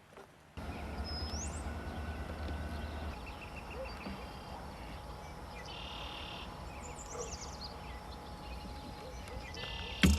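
Several songbirds singing and calling: a quick rising whistle, short trills and descending note series. A low rumble runs under the first three seconds, and a sharp knock sounds near the end.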